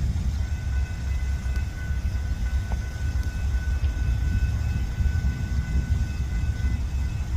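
Brandt hi-rail truck running on the rails: a steady low rumble, with faint steady high tones over it for most of the stretch.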